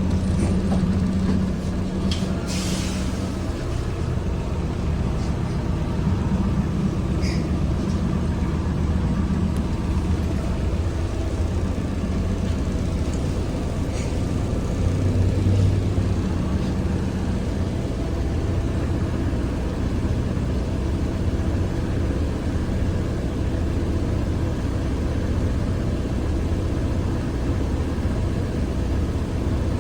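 Cabin sound of a ZiU-682G trolleybus: a steady low hum and rumble, with a short hiss about two and a half seconds in.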